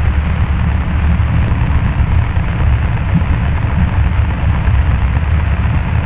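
Cessna 172 Skyhawk's piston engine and propeller running steadily, an even low drone heard inside the cabin.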